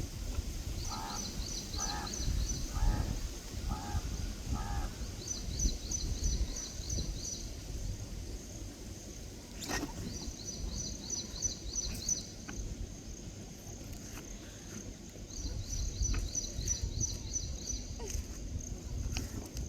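Peafowl giving five short honking calls about a second apart, then going quiet. Runs of rapid, high-pitched bird chirping trills repeat throughout over a low, wind-like rumble, with a single sharp click about ten seconds in.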